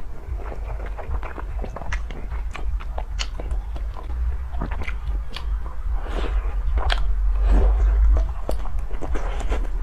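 Close-miked eating of malatang, a spicy hot-pot soup: biting and chewing, heard as a string of many small wet clicks.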